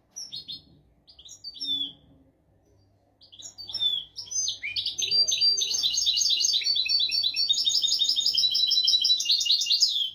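European goldfinch singing: a few short separate twittering calls, then from about four seconds in a fast, continuous twittering song that stops abruptly.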